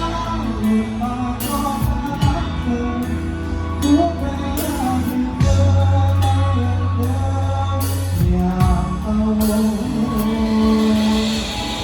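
Live band music played loud: a drum kit with repeated cymbal crashes over bass and guitar, with a voice singing.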